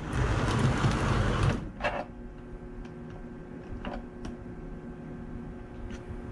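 Model train moving on the layout's track: a louder rolling rumble for about the first second and a half, then a quieter steady small-motor hum with a few sharp clicks.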